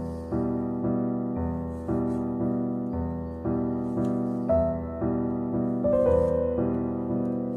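Background piano music: notes struck at an even pace, roughly one to two a second, each fading before the next.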